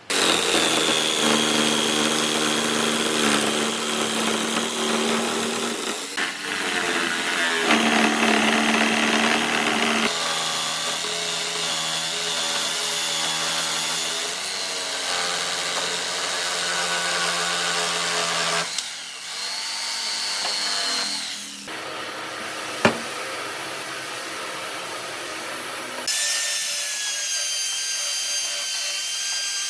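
Electric power tools running on wood in a series of short stretches that change suddenly from one to the next, each with a steady motor whine. A single sharp knock comes about 23 seconds in.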